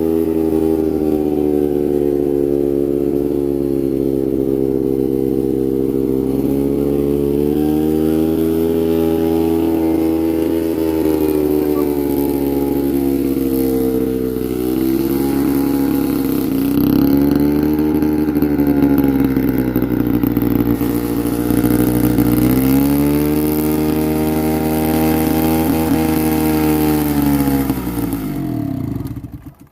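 An engine running at a steady speed, slowing twice for a moment under changing load, then running down as it shuts off near the end.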